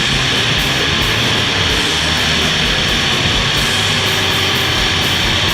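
Loud rock music with electric guitar, mixed with the steady noise of demolition derby car engines running.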